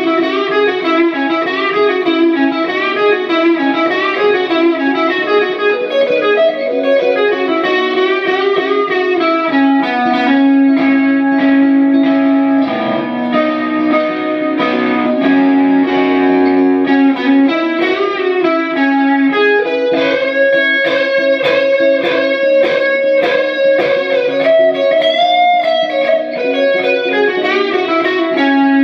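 Harley Benton ST-62 electric guitar played through an amp: a melody of single notes with bends and vibrato, then from about two-thirds of the way through, evenly repeated picked chords.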